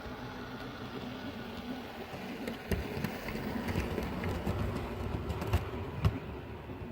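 Steady background hum with scattered clicks and knocks, likely from hands working on a model; two sharper knocks come near the end.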